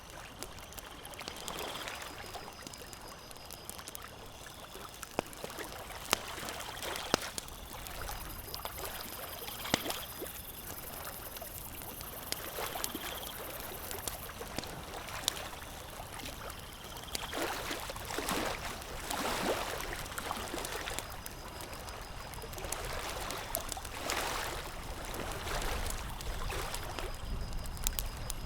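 Campfire crackling, with sharp pops scattered every second or so over a steady rushing hiss that swells and fades a few times.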